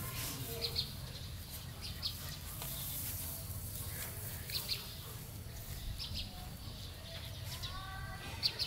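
Small bird chirping in short, high, paired notes every couple of seconds over a steady low rumble.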